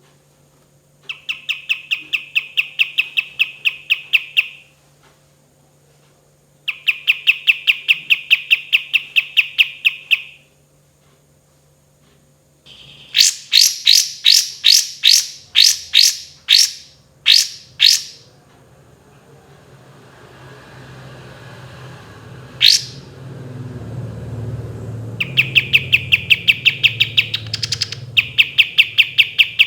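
Kapas tembak bulbul singing: rapid trills of clipped repeated notes in bursts of about three seconds, broken in the middle by a run of loud, separate sweeping notes. A low rumbling noise swells under the song in the second half, and a faint steady hum runs beneath it all.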